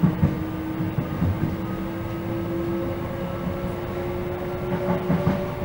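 London Overground electric train running, heard from inside the carriage: a steady rumble of wheels on rail under a whine that slowly rises in pitch, with a few knocks near the start and again about five seconds in.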